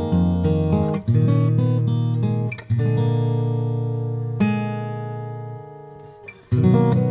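Background music: chords strummed on an acoustic guitar, five strokes about a second or more apart, the fourth left to ring and fade for about two seconds.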